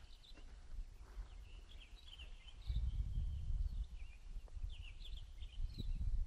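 Small birds chirping in short, repeated calls, over a low wind rumble on the microphone that grows louder about three seconds in.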